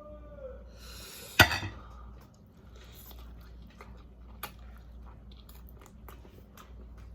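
Close-miked chewing and mouth sounds of someone eating chicken wings and white rice, with small wet clicks throughout. A brief hummed 'mm' comes at the start, and one sharp loud click about a second and a half in.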